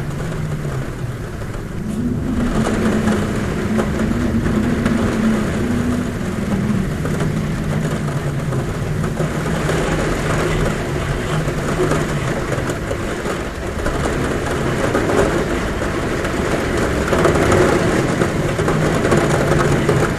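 Heavy rain falling on a roof as a steady, dense hiss, with a low wavering hum of wind at a window that shifts pitch every few seconds.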